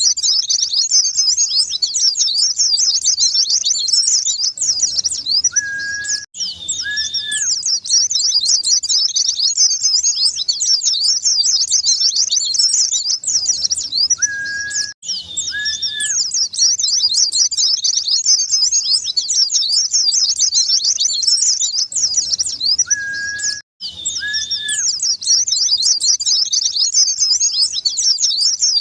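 White-eye (pleci) singing a fast, continuous, high twittering song. It plays as a loop that cuts out briefly and restarts about every eight or nine seconds. Short, steady whistled notes fall just before and after each break.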